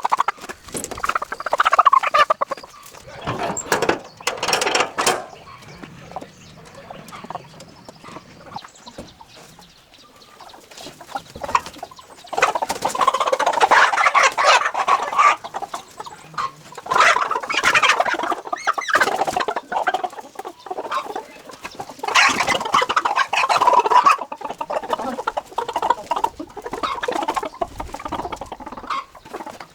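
Chickens clucking and squawking in several loud bursts, with quieter stretches between.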